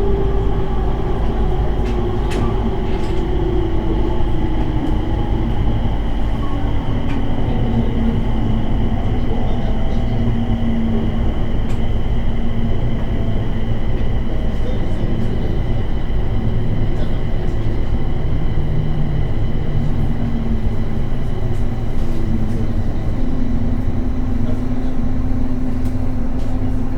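Running sound heard inside a JR 701 series 1000-subseries electric train slowing for a station stop: a steady low rumble of wheels on track under an electric motor whine that falls in pitch over the first ten seconds or so, then holds as a low steady hum.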